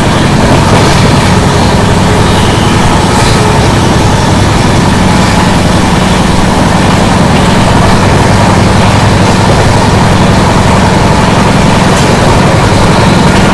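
Running noise of a moving passenger express train heard from on board: a steady, loud rush of wind and wheels on rail with a continuous low hum.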